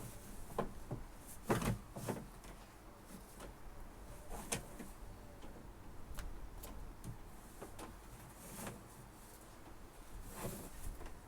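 Scattered knocks, clunks and scrapes of fishing nets and gear being handled in a small open boat, the loudest knocks about one and a half and four and a half seconds in.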